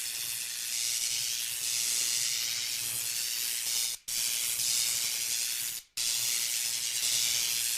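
Steady, loud hissing rush with a faint low hum underneath, broken by two sudden cuts about four and six seconds in.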